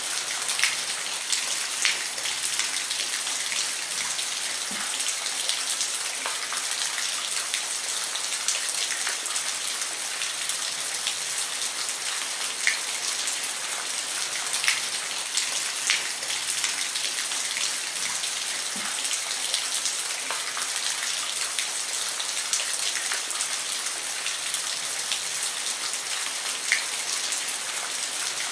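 Steady rain falling on a roof, a constant hiss with scattered louder individual drops ticking every second or two.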